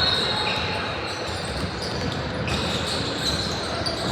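Basketball game ambience in a gym: a ball bouncing on the court among scattered thuds and a steady background din of crowd noise.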